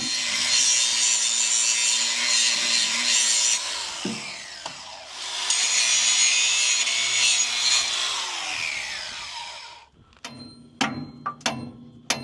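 A power tool working on metal, run twice for about four seconds each, its pitch falling as it winds down after each run.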